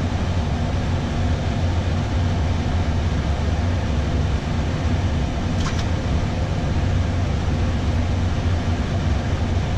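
Steady flight-deck noise of an Airbus A320 in descent: airflow and air-conditioning with a low hum. A brief faint click about six seconds in.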